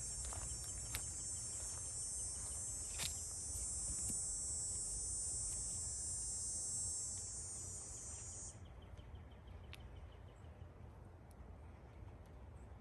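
Insects trilling in a steady, high-pitched chorus that cuts off suddenly about eight and a half seconds in, with a few light clicks near the start.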